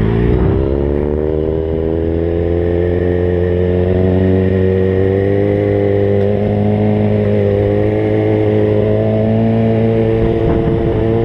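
Kawasaki ZX-6R sport bike's inline-four engine pulling away and then holding a steady cruise. Its pitch climbs over the first second and then stays nearly level.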